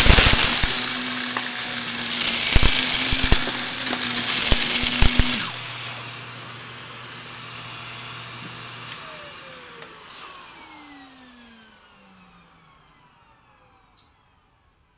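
Vacuum cleaner running and crunching up debris, with many sharp crackles over the motor. About five and a half seconds in it is switched off and the motor spins down with a falling whine that fades out.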